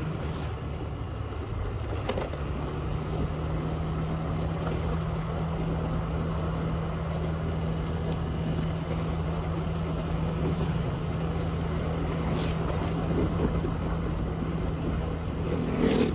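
Motorbike engine running at a steady speed while riding, under wind noise on the microphone, with a few brief knocks.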